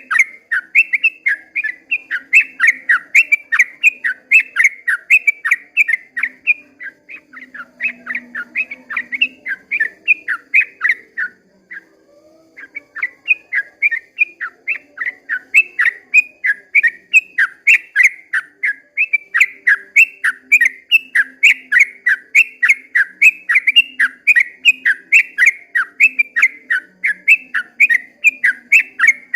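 Yellow-vented bulbul (trucukan) singing a long, rapid chattering song of short whistled notes, about three a second, with a short pause about twelve seconds in.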